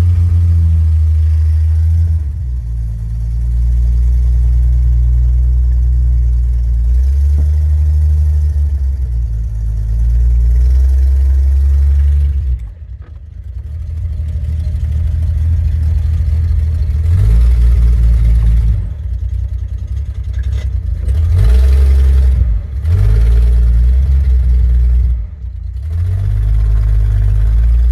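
Hudson Super Wasp's flathead straight-six running just after a cold start, its speed stepping up and down repeatedly as the throttle is worked while it warms up, with a brief sag about halfway through. Heard from inside the car.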